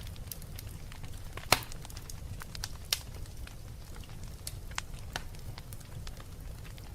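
Wood fire crackling in a fireplace: irregular sharp pops and snaps over a steady low rumble of the flames, with the loudest pop about one and a half seconds in.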